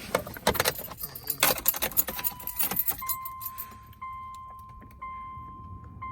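A ring of car keys jangling and clicking for the first few seconds. Then a dashboard warning chime in the 2005 Subaru Outback XT repeats about once a second, before the engine is cranked.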